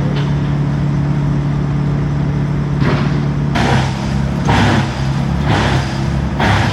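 Heavy truck engine running steadily, the grapple saw truck's engine powering its hydraulics. From about three seconds in, a string of hissing bursts comes over it, about one a second.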